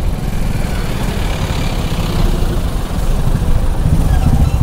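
Yamaha R15's 155 cc single-cylinder engine idling with its petrol tank nearly empty, getting a little louder and more even near the end.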